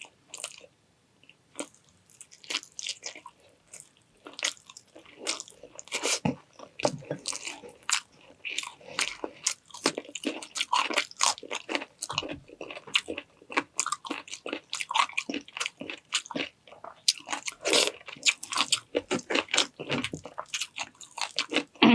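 Close-miked eating: a person biting and chewing food, with many irregular crunchy clicks.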